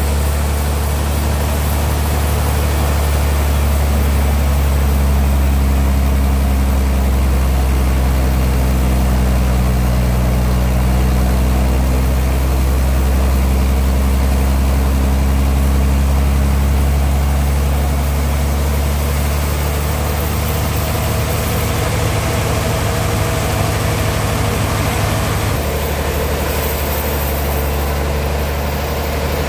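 Engine of a homemade sawmill running steadily, its low tone shifting slightly a few seconds before the end.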